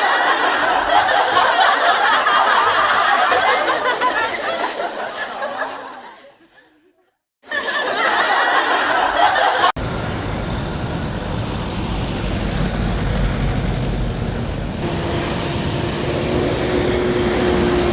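Road traffic with trucks passing, heard as two separate cuts: a hissing rush that fades away, then after a brief silence and a cut, a lower engine rumble with a steady hum joining near the end.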